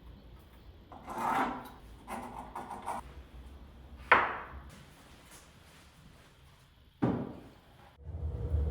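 Wooden boards being handled: a board scrapes and slides, then knocks twice as it is set down, once about four seconds in and again near seven seconds. A low steady hum starts just before the end.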